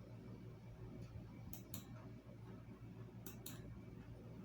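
Computer mouse double-clicking twice, sharp clicks in quick pairs about two seconds apart, over a low steady room hum.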